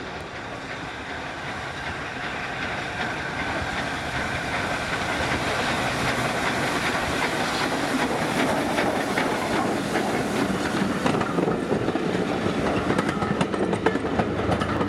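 A train approaching along the line, growing steadily louder, with wheels clicking over the rail joints more and more in the second half as it draws near.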